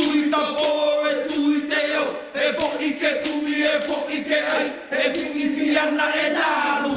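A group of people chanting and shouting together, many voices holding a common pitch with shouts rising and falling over it.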